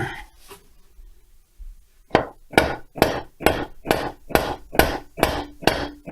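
About ten sharp hammer blows in a steady rhythm, a little over two a second, starting about two seconds in, struck on a Stihl 070 chainsaw crankcase to split its two halves apart.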